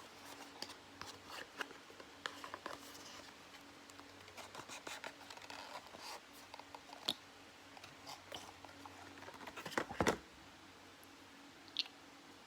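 Small cardboard perfume box being opened by hand: faint scattered crackles and taps of the packaging, with a sharper click about seven seconds in and a cluster of louder clicks around ten seconds.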